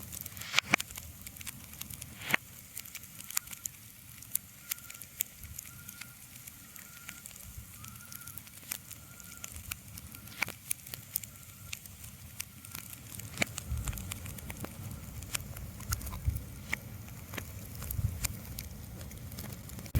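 Irregular sharp crackles and pops over a quiet hiss, with a low rumble coming in during the second half.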